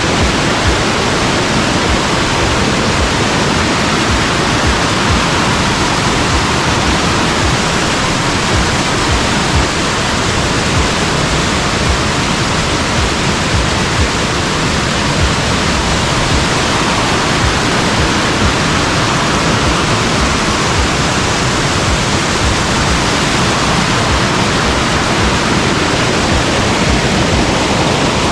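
A river in flood, swollen by a week of heavy rain, with fast water rushing down its bed as one loud, steady noise that never lets up.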